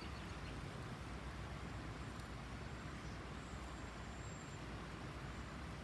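Steady low hum with a faint hiss, no distinct events: background room tone.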